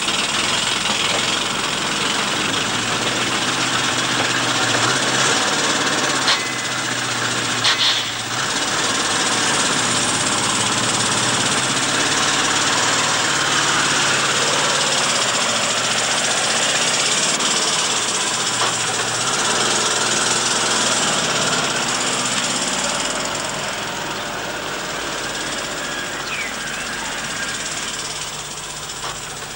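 Vintage motorcycle-and-sidecar engine running with a rapid knocking beat, its speed rising and falling unevenly as the rider gets on and moves off. A couple of short clicks come about 6 and 8 seconds in.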